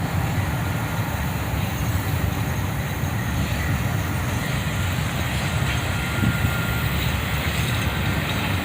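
CSX ballast train led by a GE AC44CW diesel locomotive passing close by: a steady, loud low rumble of engine and rolling wheels.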